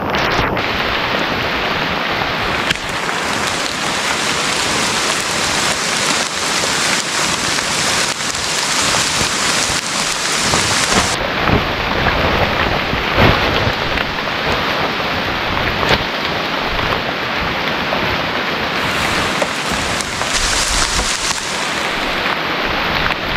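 Heavy tropical rain pouring down: a loud, steady hiss with many separate drops striking close to the microphone.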